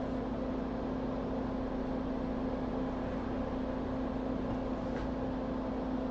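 Steady machine hum with a constant low tone over an even hiss, unchanging throughout: a small fan or blower motor running.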